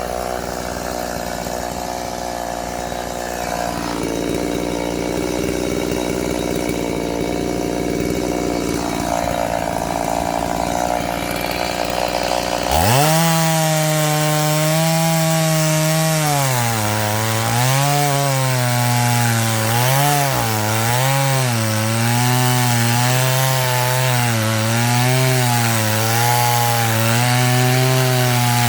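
Chainsaw running, with an engine note that dips and recovers again and again, as when the saw is loaded in a cut through firewood. About 13 seconds in, the sound changes abruptly to a louder, clearer note.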